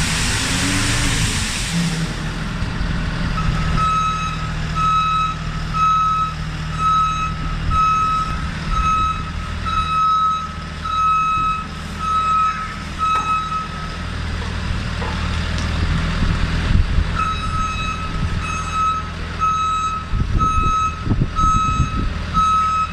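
Reversing alarm on a working vehicle beeping steadily, a little faster than once a second, over its running engine; the beeping stops for about three seconds midway, then starts again. A loud hiss fills the first two seconds.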